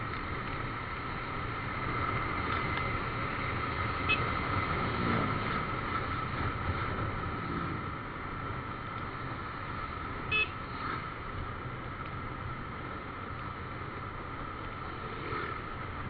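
Steady running and wind noise on a moving motorcycle, with two short horn beeps, one about four seconds in and a louder one about ten seconds in.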